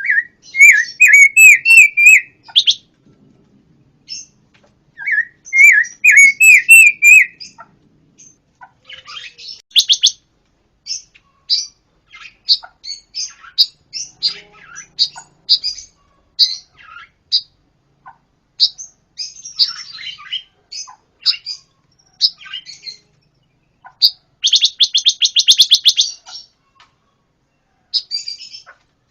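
Pancawarna songbird singing: two phrases of quick, rapidly repeated notes in the first seven seconds, then a long string of short, sharp chirps, with a fast dense trill about 24 seconds in.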